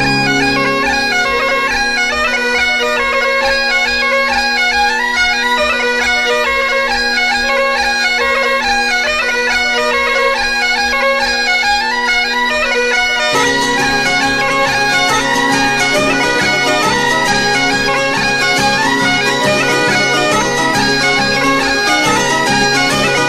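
Bagpipe music: steady drones under a moving melody, with a regular beat. About thirteen seconds in, fuller accompaniment joins and the low end thickens.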